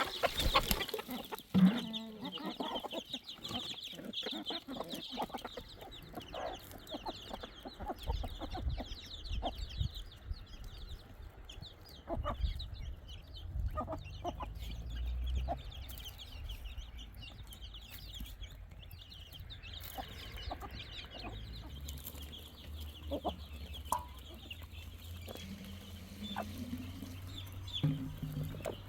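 Chickens clucking, over a steady high chirping, with scattered short knocks, the loudest about a second and a half in.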